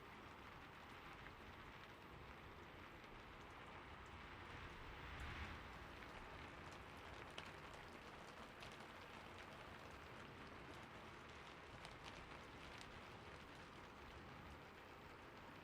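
Faint, steady rain with scattered drop ticks, swelling briefly about five seconds in.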